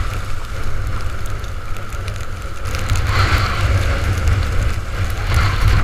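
Gale-force storm wind buffeting the microphone in a constant heavy rumble, over a crackling hiss of spray and choppy water. Louder gusts rush in about three seconds in and again near the end.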